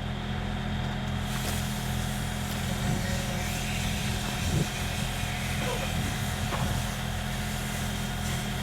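Large diesel engine running steadily, a low throbbing hum with a faint hiss joining in about a second in.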